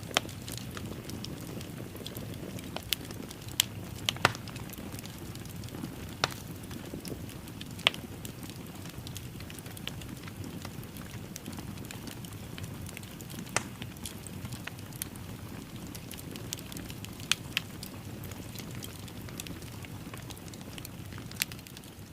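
Fire in a fireplace crackling: a steady low rush of flame with irregular sharp pops and snaps scattered throughout.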